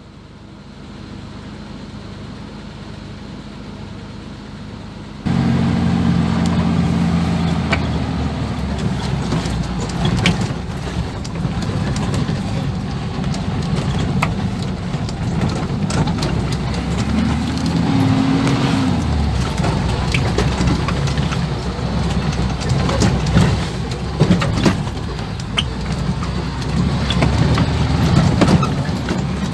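1980 Land Rover Series III engine running as it drives a rough 4x4 track, with frequent knocks and rattles over bumps. The sound jumps suddenly much louder about five seconds in, and the engine note rises and falls briefly a little past the middle.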